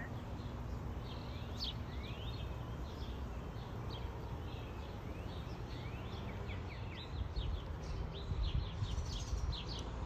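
Small songbirds chirping in the trees: many short, high chirps, more frequent in the last few seconds, over a steady low rumble.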